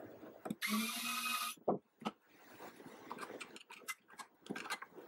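A small power tool's motor runs in a short burst of about a second, followed by a string of light clicks and taps as small metal parts are handled.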